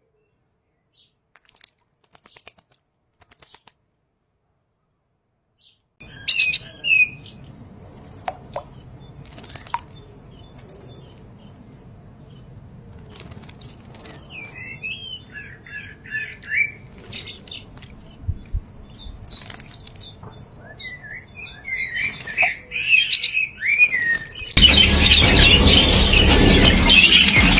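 Near silence for the first few seconds, then aviary birds chirping and calling: short, sharp high chirps mixed with lower, warbling calls. Near the end a sudden, much louder dense noise starts and holds.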